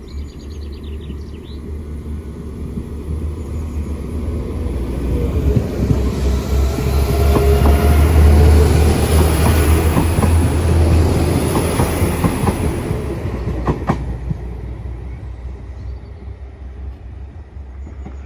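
Northern Ireland Railways Class 4000 diesel multiple unit pulling out and running past. It grows louder to a peak about eight to twelve seconds in, then fades. Its wheels click over rail joints, with a thin high squeal from the wheels.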